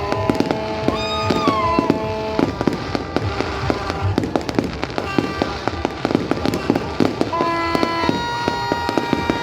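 Fireworks display: a rapid, continuous run of bangs and crackles, with music of held, sliding notes playing at the same time.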